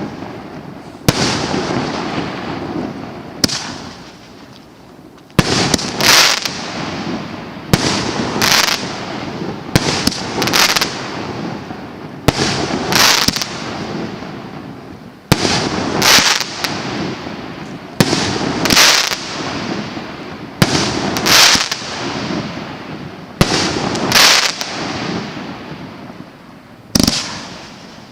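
Consumer firework battery (cake) firing shot after shot, about one every two and a half seconds: each sharp launch is followed within a second by a louder aerial burst that trails away.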